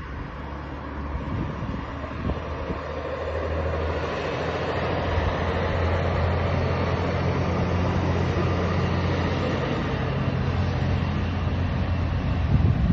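Scania truck's diesel engine running with a steady low hum, growing louder over the first few seconds and then holding, with a brief louder peak just before the end.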